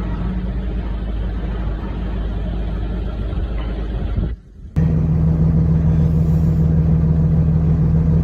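Heavy vehicle engine running with a steady low rumble. A little over four seconds in it cuts out briefly, then a different engine comes in with a steadier, humming drone.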